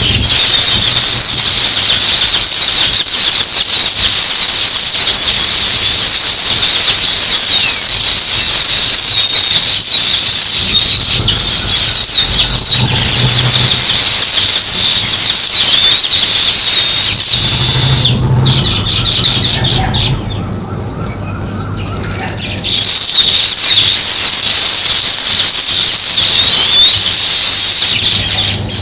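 A flock of weaver birds chirping and chattering at their nests, a dense, high, continuous twittering of many overlapping calls. It thins and drops for a few seconds about two-thirds of the way through, then comes back at full strength.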